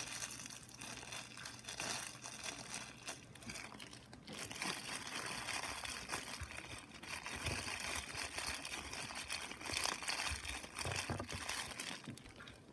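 Close-up crinkling and crackling, a continuous dense rustle of small crackles, as of crinkly material being handled right at the microphone.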